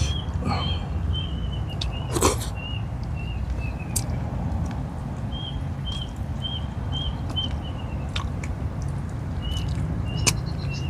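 A bird calling: runs of short, high notes, about three a second, three times over, each run dropping slightly in pitch. Under it, wet clicks and smacks of a man eating with his hands, and a steady low rumble.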